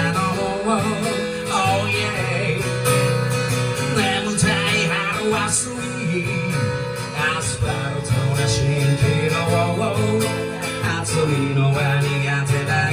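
Live music: an instrumental passage of the song, led by strummed and plucked guitar.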